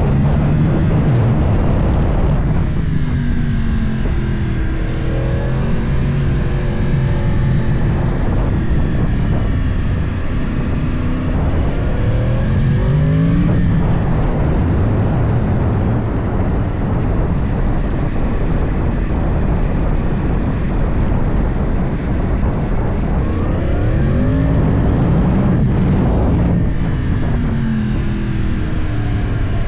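Yamaha YZF-R1 crossplane inline-four engine through a full Akrapovic exhaust, heard onboard while riding: the engine note drops off-throttle and climbs again through the revs several times.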